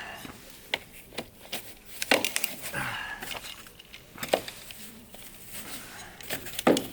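Firewood being chopped: a series of sharp wooden knocks and cracks at irregular intervals, the loudest near the end.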